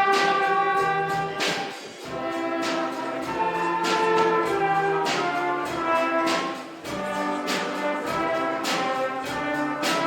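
Junior orchestra playing a brass-led orchestral piece: held chords with strong accented hits about every second and a bit.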